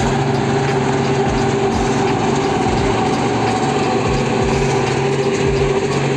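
Engine of concrete pumping machinery running at a steady pitch, with irregular low thuds underneath.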